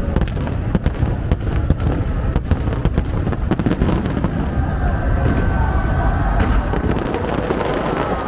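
Fireworks going off in quick succession, a dense run of bangs and crackles that thins out after about five seconds as crowd voices come through.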